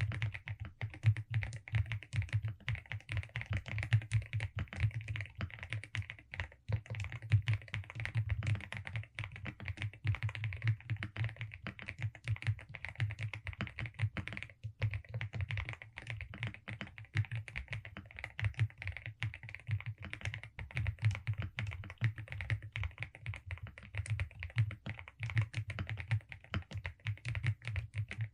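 Velocifire RX870 aluminium mechanical keyboard with DSA keycaps being typed on in a fast, continuous stream of keystrokes. The typing pauses briefly about six and a half and fourteen and a half seconds in.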